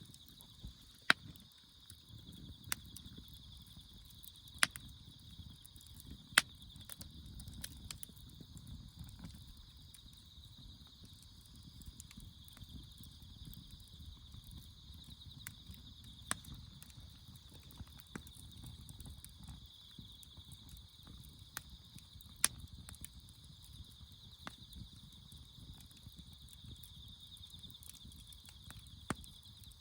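Campfire wood burning: a low rush of flame with sharp pops and cracks at irregular intervals, a dozen or so, with a steady high-pitched hum underneath.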